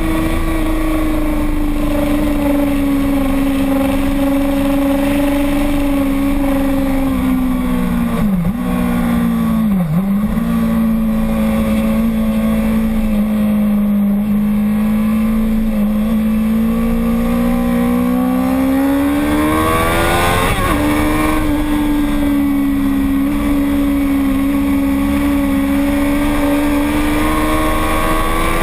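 Racing motorcycle engine running hard and steadily, its pitch slowly sinking and rising with the revs. The revs dip sharply and briefly twice, about eight and ten seconds in, and make a quick up-and-down swing about twenty seconds in.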